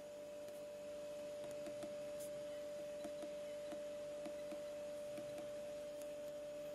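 A steady, unchanging hum at one pitch, with faint scattered small clicks.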